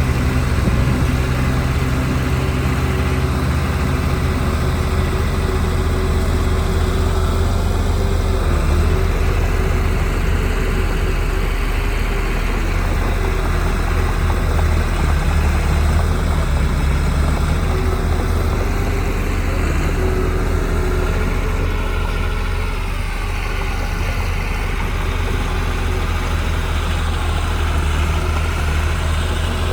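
Diesel engine of heavy earthmoving machinery running steadily with a deep drone, its pitch shifting a little about two-thirds of the way through.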